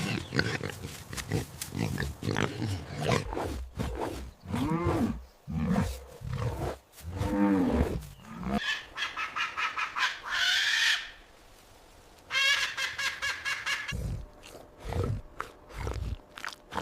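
A series of different recorded animal calls, one after another: grunting and snorting at first, then pitched calls that rise and fall, a high call, a brief quiet gap, and another high wavering call before lower sounds near the end.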